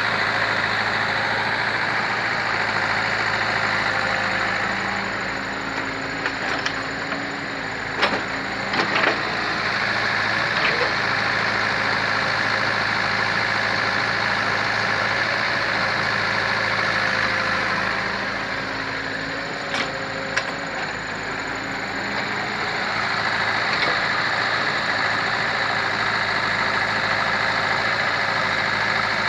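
Hydraulic excavator's diesel engine running steadily while it works, its level swelling and easing as the load changes. A few sharp knocks come through, twice near the middle and once later.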